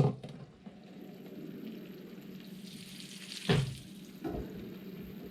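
Sausage sizzling as it browns in a frying pan, a steady frying hiss, with two short thumps in the second half.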